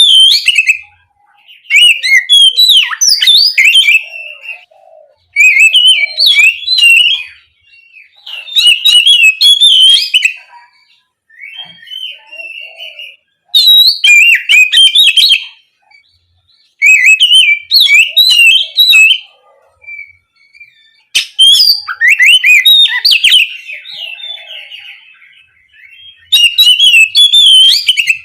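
Oriental magpie-robin (kacer) singing loudly in repeated bursts of rapid, varied whistled phrases. The bursts last a couple of seconds each, with short pauses between them, and one softer burst comes about halfway through.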